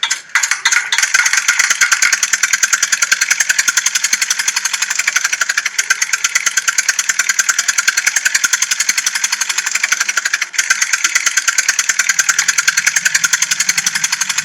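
Toy tractor making a fast, steady chugging clatter, a rapid even run of clicks like a small engine ticking over, with a brief break about ten seconds in.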